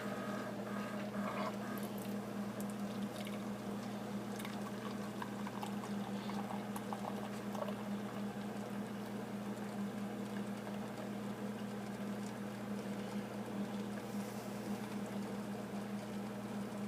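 Keurig single-cup coffee maker brewing: a steady pump hum while coffee pours into the cup, with a few small ticks in the first half.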